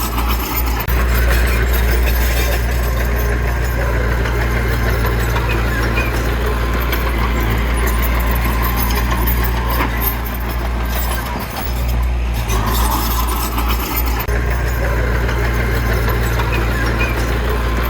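Heavy diesel engine of earthmoving machinery running steadily at a constant low hum, with a rough mechanical noise over it.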